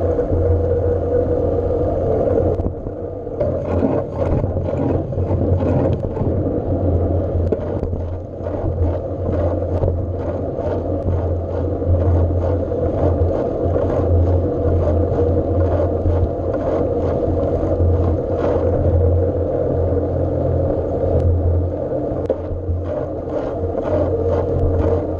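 A bike in motion: a steady drone with a constant low hum, and scattered light clicks and scrapes.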